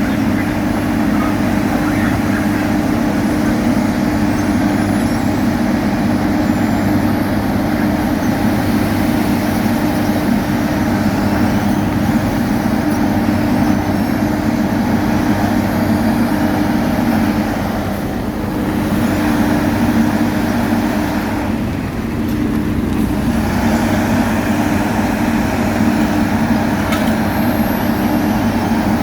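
Heavy diesel construction machinery engine running steadily with a constant low hum. The sound dips briefly twice, a little past the middle.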